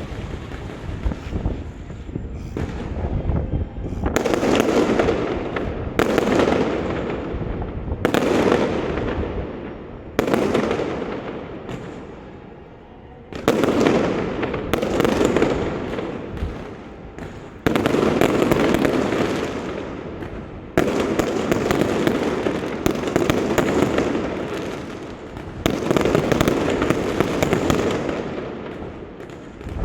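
Fireworks display: a burst about every two to three seconds, each a sudden bang followed by a dense crackle that fades away.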